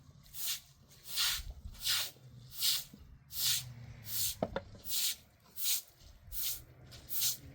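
A mop swishing across a cement floor in even strokes, about ten swishes, with a short knock about four and a half seconds in.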